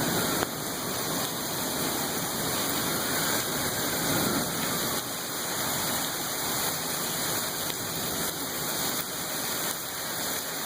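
Heavy thunderstorm rain pouring down in a steady rush.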